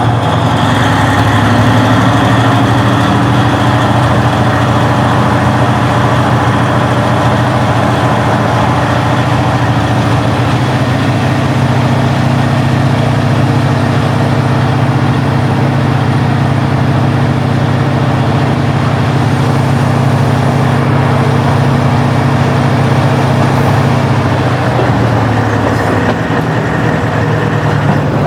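KiHa 40-series diesel railcar's original DMF15HSA diesel engine running with a steady low note; about 25 seconds in its note changes as the engine eases off.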